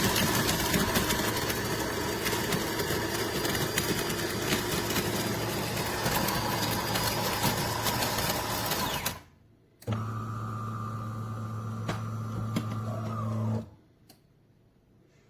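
De'Longhi Rivelia bean-to-cup espresso machine's built-in burr grinder grinding coffee beans for about nine seconds, a dense crackling whir. After a short pause the machine runs a steady motor hum for about four seconds, then stops abruptly.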